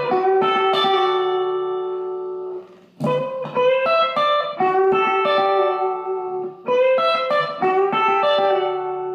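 Electric guitar playing a country pedal-steel-style lick that outlines a G to D to G change. The phrase is played three times: a quick run of notes settling into held, ringing notes, restarting about three seconds in and again near seven seconds.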